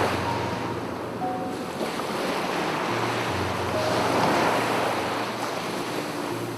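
Sea waves breaking and washing onto a beach, swelling at the start and again about four seconds in, with faint piano notes underneath.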